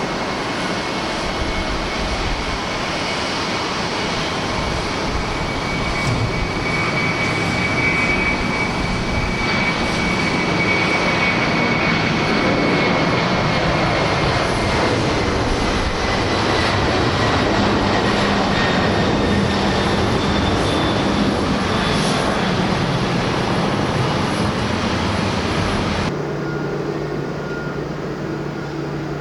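Jet airliner engines at takeoff thrust: a loud, steady rush of engine noise with a high fan whine that slowly falls in pitch, swelling louder through the middle. About 26 seconds in it cuts abruptly to a quieter, steady low hum.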